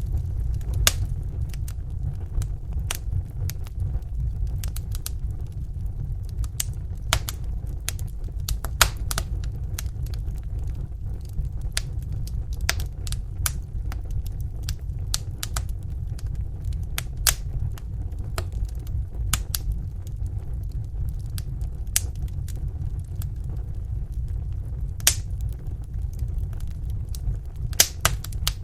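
Wood fire in a fireplace: a steady low rumble of the flames with irregular sharp crackles and pops of burning logs.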